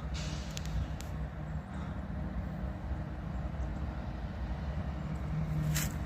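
Diesel locomotives of an approaching freight train: a steady low engine rumble with a held hum, growing a little louder near the end.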